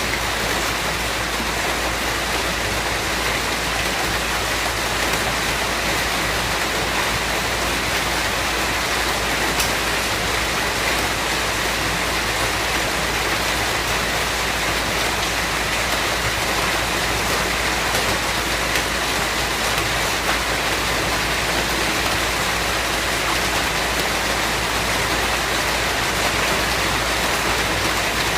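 Steady rainfall: an even hiss with a few sharper drop ticks now and then.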